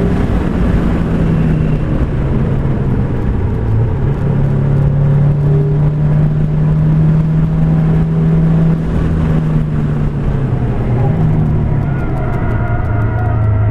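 Car engine and tyre and wind noise heard from inside the cabin at track speed. The engine note drops about half a second in, steps up and holds steady through the middle, then drops lower near the end as the car slows from about 100 mph to 50 mph.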